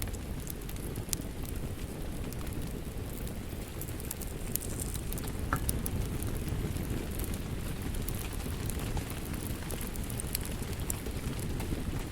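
Wood fire crackling in a fireplace: a steady low noise of burning with scattered, irregular sharp pops and snaps.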